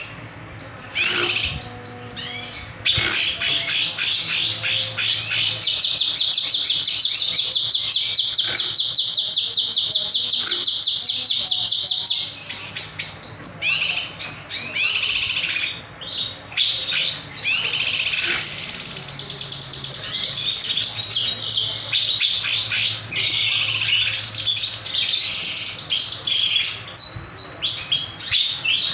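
Kinoy songbird singing continuously in full voice: a long, fast trill of sharp repeated high notes for several seconds, then more varied chirps and shorter rapid trills.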